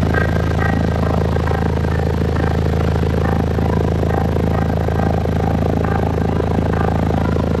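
Truck's four 15-inch subwoofers in a blowthrough enclosure playing loud, steady, deep bass, with a clatter of rattling above it.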